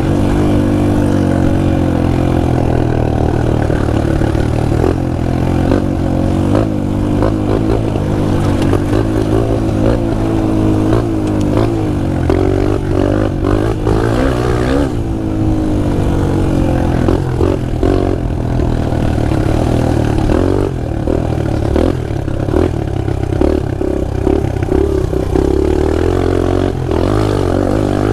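Pit bike engine running hard as the bike is ridden, revving up and easing off again and again, with some clatter.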